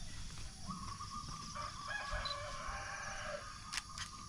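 A rooster crowing: one long drawn-out crow starting about a second in. Two sharp clicks near the end.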